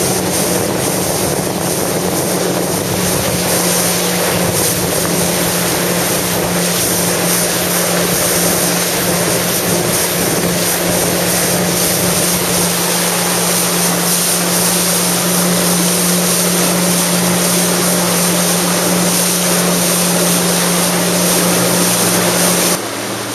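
Jet ski engine running steadily at speed, with water rushing and wind buffeting the microphone. The engine note drops suddenly just before the end.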